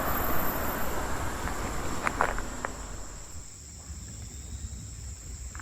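Crickets chirring, a steady high-pitched trill. A broad rushing noise fades away over the first three seconds, and a few footsteps crunch about two seconds in.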